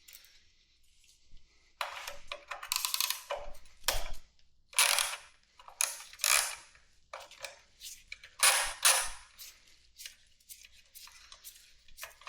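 Hand tools working on metal: wrenches and sockets clicking and clinking in a string of short bursts, starting about two seconds in.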